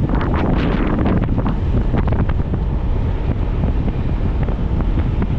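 Wind buffeting the microphone on a moving motorcycle: a steady low rumble with gusty, flapping bursts of rushing air.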